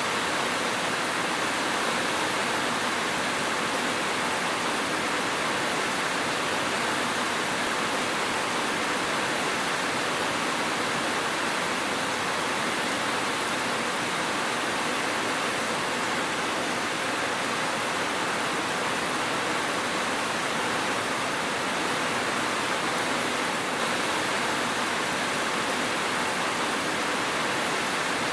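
Steady rainfall: an even, unbroken hiss of rain with no thunder and no single drops standing out.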